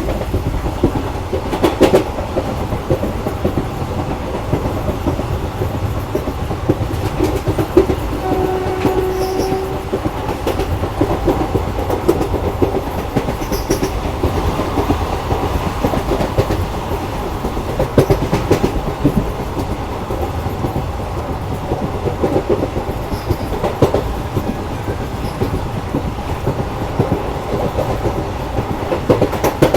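Koyna Express passenger train running, wheels clattering over rail joints with a steady rumble. About nine seconds in, a train horn sounds briefly on one steady note.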